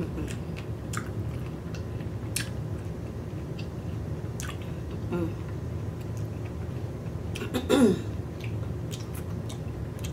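A person chewing a mouthful of baked oysters close to the microphone with lips closed, wet mouth clicks scattered through, and a brief hum that falls in pitch about eight seconds in.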